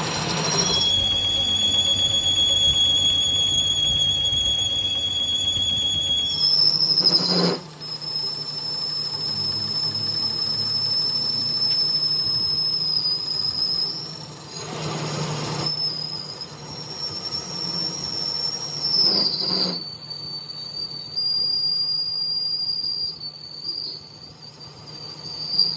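A workshop machine working metal, with a steady high-pitched squeal of metal on metal over a low hum. The squeal jumps higher about six seconds in and shifts again later, with a few short rushing bursts along the way.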